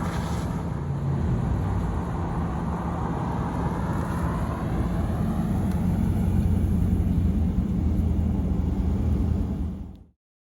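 1997 Pontiac Trans Am's LT1 V8 running steadily under way, with road and tyre noise mixed in. The sound fades out near the end.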